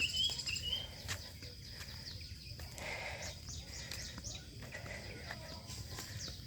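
Outdoor morning ambience: birds chirping in short, scattered calls over a steady high-pitched insect drone and a low rumble.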